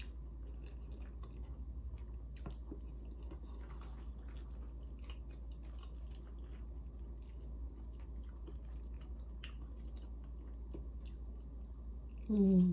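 Close-miked chewing and lip smacking of soft food — roast with gravy and macaroni and cheese — with many small irregular wet clicks. Near the end, a short hummed "mm" of enjoyment.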